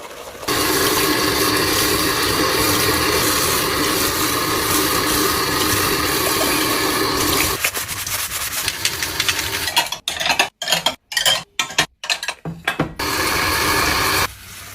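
Water running steadily, as from a tap into a sink, with dishes being handled. About halfway through it goes weaker and then choppy and stop-start for a few seconds before running steadily again.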